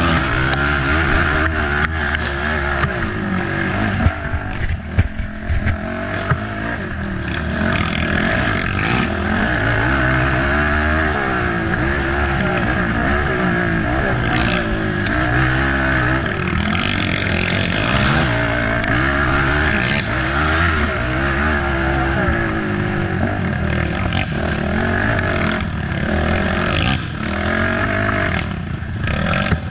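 Racing ATV engine revving hard and easing off again and again over rough ground, with sharp knocks and clatter from the machine a few seconds in and again near the end.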